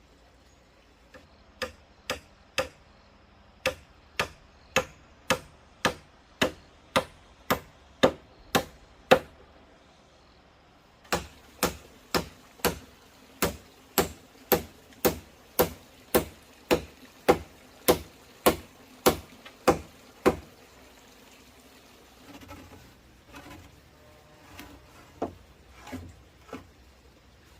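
A hand tool striking wood in steady, evenly spaced blows, about two a second, in two runs of some fifteen to twenty strikes with a short pause between. A few softer, scattered knocks follow near the end.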